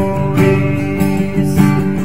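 Background music: acoustic guitar strummed in a steady rhythm, a chord about every half second.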